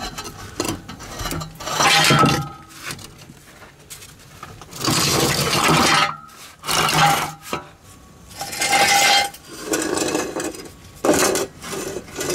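Steel exhaust tubing clanking and scraping as it is handled under the car, in several separate bursts, some with a brief metallic ring.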